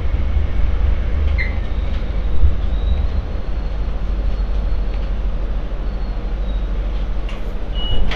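MTR Light Rail Phase IV car running along the track, heard from on board: a steady low rumble of wheels and running gear, with a faint high whine in the middle and a short chirp early on.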